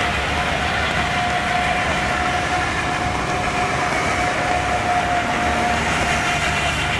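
Heavy truck engine running at a steady speed, with a steady high whine over a low rumble.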